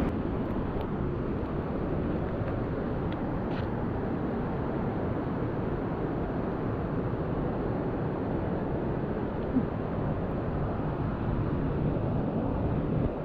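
Steady rushing of a fast-flowing river that is running strong.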